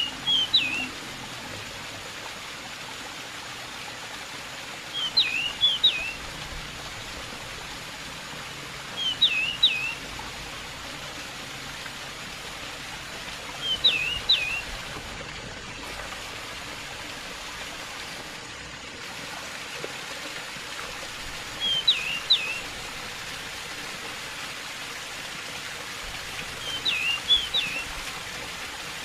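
Steady rush of running water, with a pied bush chat (decu) repeating a short chirping phrase every four to five seconds, six times, with a longer gap in the middle.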